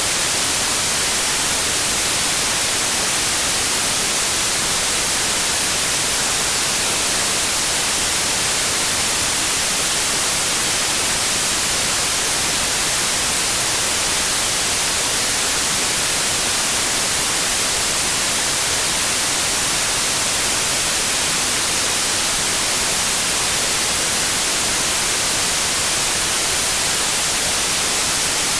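Synthetic white noise: a steady, even hiss, strongest in the high end, unchanging throughout.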